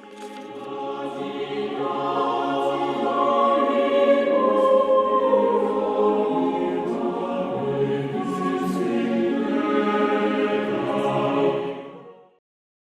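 Recorded cathedral choir singing the opening theme: several voice parts in long held chords. It swells in over the first two seconds and stops shortly before the end.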